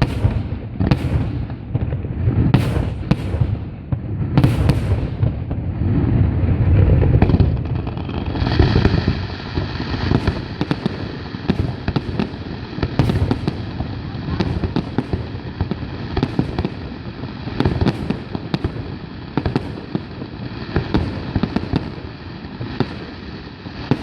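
Fireworks display bursting: a rapid run of sharp bangs over deep booms, then continuing crackle and pops from about eight seconds in, over a steady high tone.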